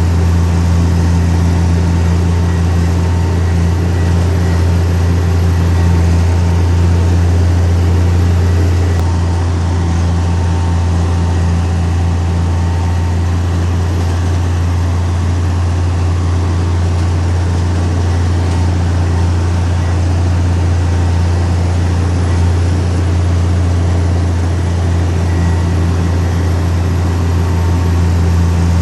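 Heavy earthmoving machine's diesel engine running steadily with a deep, constant drone.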